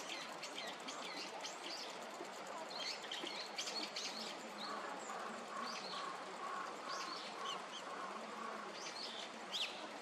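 Wild birds calling with short high chirps scattered throughout, over a steady outdoor hiss. A lower repeated note, about two a second, runs from about five to eight seconds in, and a sharper call near the end is the loudest.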